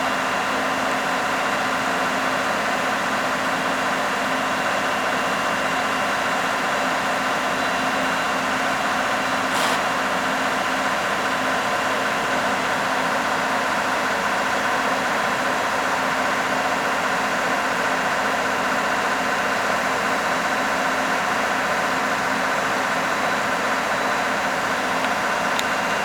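Engine of a 2001 American Augers MCM2000 auger boring truck running steadily at an unchanging speed, with one brief click about ten seconds in.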